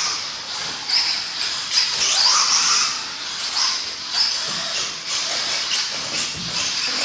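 Radio-controlled stadium trucks and truggies racing on a dirt track: high-pitched motor whines rising and falling as they speed up and slow down, over a steady hiss.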